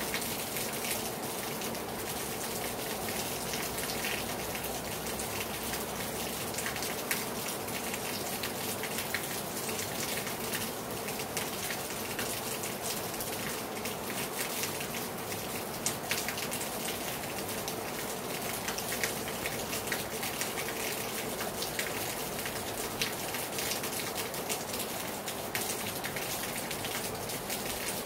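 Rain falling hard on a terrace: a steady hiss dotted with many sharp little drop impacts.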